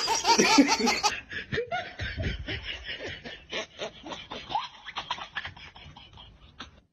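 A person laughing in short, repeated snickers that gradually grow quieter and trail off near the end.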